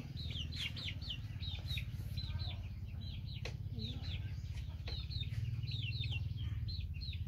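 Birds peeping in quick runs of short, high, downward-sliding chirps, over a steady low hum.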